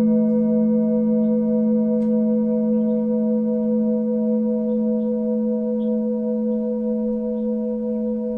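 Singing bowl ringing on after a strike, a low steady tone with higher overtones, one of which wavers about three times a second, slowly fading. Small birds chirp faintly throughout, and there is a light click about two seconds in.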